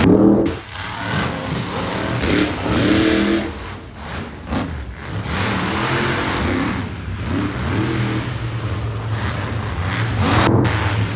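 Monster truck engine revving up and down several times over a steady engine drone.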